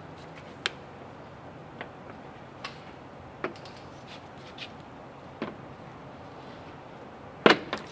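Scattered light clicks and taps of hard parts being handled and turned while a new truck fuel filter is fitted, with a louder pair of clacks near the end, over a steady low background hum.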